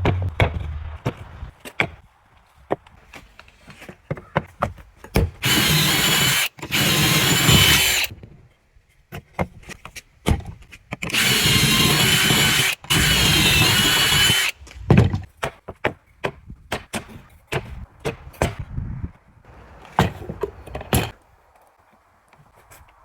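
A power tool runs in four short bursts of about a second each, in two pairs, with a wavering whine. Between the bursts come many sharp knocks and clatters of wood trim pieces being handled and set down.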